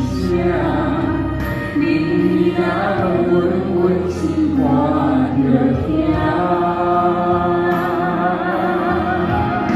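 Several voices singing a slow song over instrumental accompaniment, with long held notes that waver with vibrato near the end.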